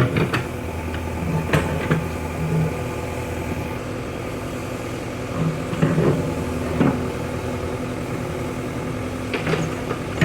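JCB 3DX backhoe loader's diesel engine running steadily, with a few sharp knocks and clanks at intervals.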